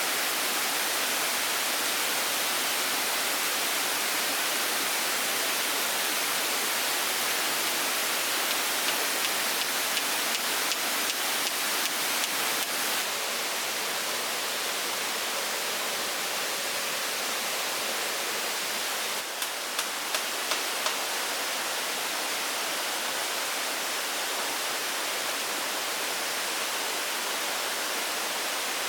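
A steady, even hiss of outdoor background noise, with a run of light clicks about nine to thirteen seconds in and a few more about twenty seconds in.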